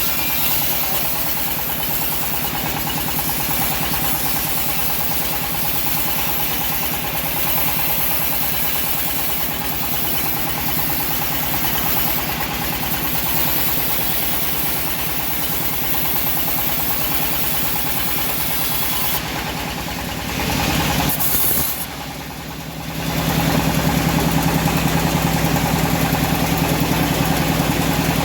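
The engine of a homemade bandsaw mill running steadily with a fine regular pulse. About twenty seconds in, its sound dips and shifts, and then it runs on louder with a steady hum.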